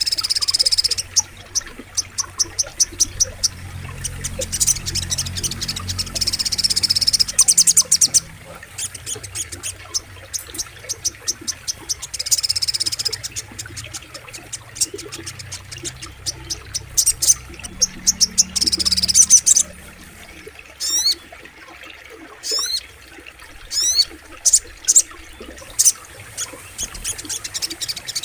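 Sogok ontong (little spiderhunter) song: runs of rapid, sharp high chips and dense buzzy trills that come in bursts every few seconds, with a series of quick falling whistles about two-thirds of the way through. A faint low rumble of flowing water lies underneath.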